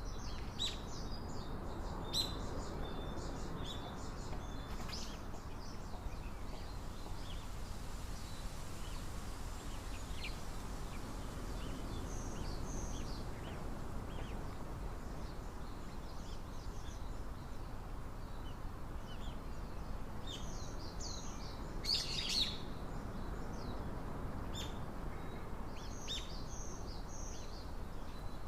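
Small wild birds chirping in short, scattered high calls, with a louder cluster of chirps about two-thirds of the way through, over a steady low background hum of outdoor noise.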